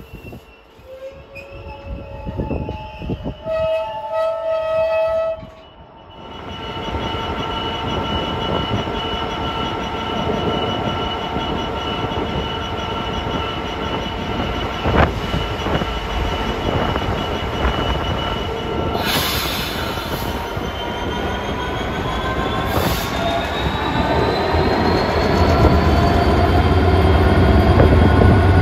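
A train running past at close range: a few brief tones in the first five seconds, then from about six seconds a steady run of engine or motor tones over heavy rumble. It grows louder, with a rising whine near the end.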